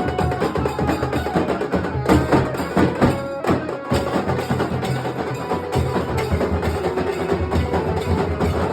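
Nasik dhol ensemble playing: dhol and tasha drums beaten in a fast, dense, unbroken rhythm.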